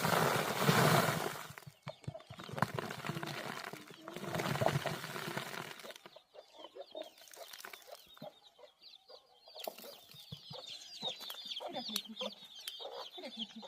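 Chickens clucking, with many quick high-pitched peeps that start about seven seconds in and keep going. Earlier, two loud bursts of rustling noise.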